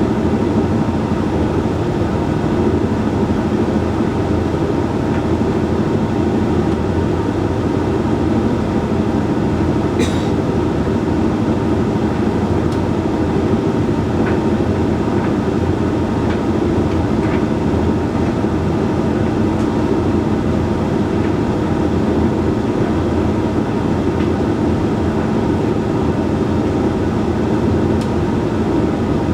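Hoover Link X Care HLX C10DRGR condenser tumble dryer running mid-cycle: a steady hum and rumble of the motor, fan and turning drum, with a few light clicks from the load tumbling.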